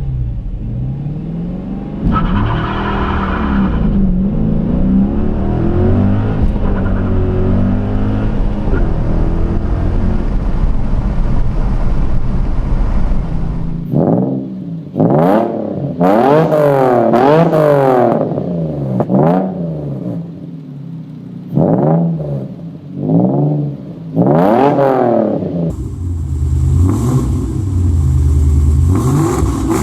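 Modified car exhaust revving: first a rough running with the pitch wavering up and down, then a series of about eight sharp throttle blips, each rising and falling quickly. The exhaust note changes abruptly about 14 and 26 seconds in, as from a different car.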